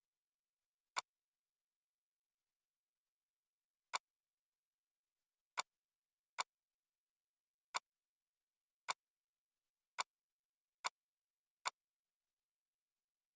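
Single sharp computer mouse clicks at uneven intervals, nine in all, closer together in the second half, with dead silence between them.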